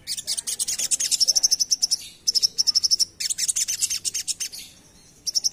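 Crimson sunbird (sogon) singing a rapid, high-pitched chattering song. Fast trains of sharp notes run into quick, even trills, in bursts with brief pauses about two seconds in and near the end.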